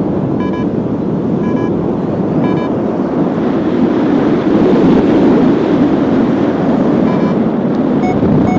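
Strong wind rushing over the microphone in paraglider flight, with a flight variometer beeping short electronic tones, about one a second for the first few seconds. After a pause of several seconds the beeps come back faster and at a different pitch near the end, the vario signalling a climb.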